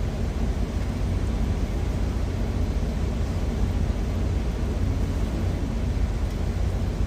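Steady low rumble of an idling truck engine, with the even hiss of an empanada frying in oil in a pan over it.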